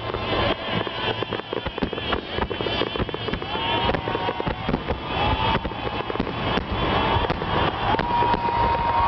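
Fireworks going off: dense, rapid crackling and popping, with whistling shells whose pitch rises and then holds, and a warbling whistle about two seconds in.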